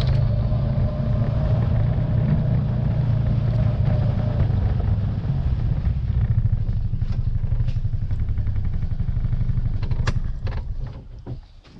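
A motor vehicle's engine running steadily with a low rumble, then dying away near the end with a few clicks.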